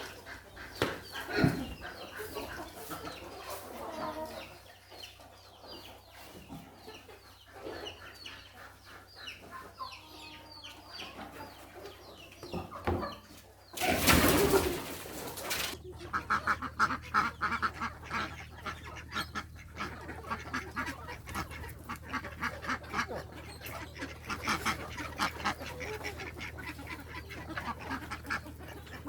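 Farmyard chickens clucking, many birds calling in short rapid notes. A loud rustling burst lasting about two seconds comes halfway through, and the clucking grows denser after it.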